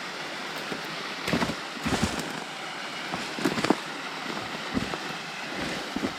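Steady rush of a nearby creek and waterfall, with footsteps crunching through dry leaves and briars and snapping brush in several sudden crackles.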